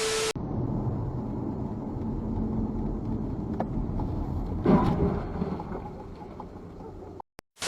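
Low steady vehicle rumble, with a sudden loud bang about two-thirds of the way in that fades over a second or two. A short hissing edit transition with a steady tone is heard at the very start.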